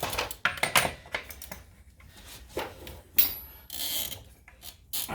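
Ratcheting torque wrench clicking as the front hub's axle nut is tightened to 185 foot-pounds, several sharp clicks in the first second and fainter ones after.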